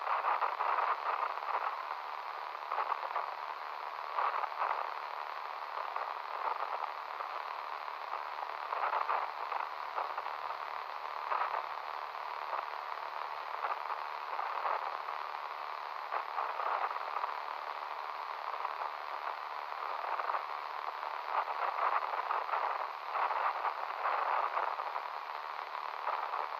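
Radio-like static hiss, narrow and midrange, swelling and fading unevenly throughout, over a faint low hum.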